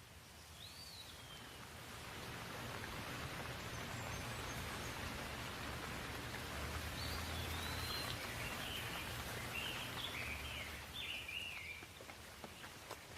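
Rain falling steadily, growing louder a couple of seconds in and easing again near the end, with a low rumble underneath. Birds chirp once early on and several times in the second half.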